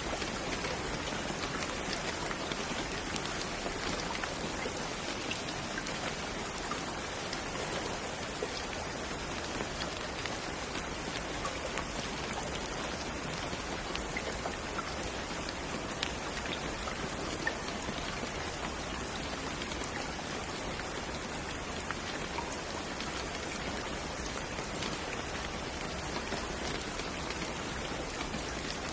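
Steady rain with many fine drop ticks pattering on a surface, an even hiss that never lets up.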